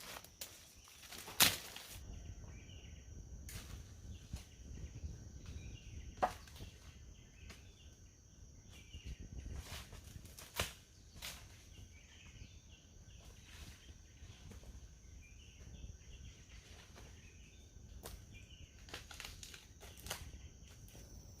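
Outdoor ambience: irregular sharp clicks and knocks, the loudest about a second and a half in, over a steady high-pitched tone and a low rumble, with faint chirps.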